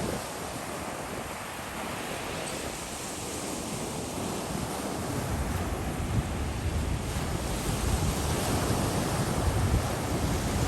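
Gulf of Mexico surf washing onto a sandy beach, with wind buffeting the microphone in low rumbling gusts that grow stronger after about five seconds.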